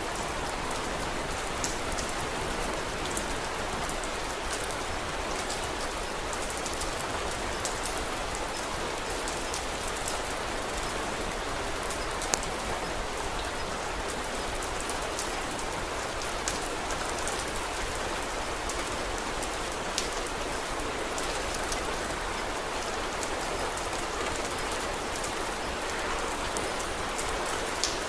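Steady rain falling, an even hiss of drops, with occasional sharp crackles from a wood fire, the loudest about twelve seconds in and near the end.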